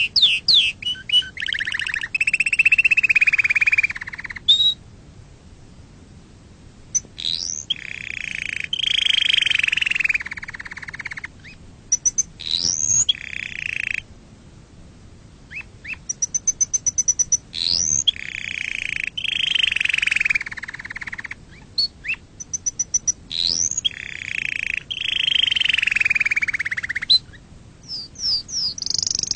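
Domestic canary singing: phrases of a few seconds each, built of rapid trills and rolls with quick rising whistles, broken by short pauses.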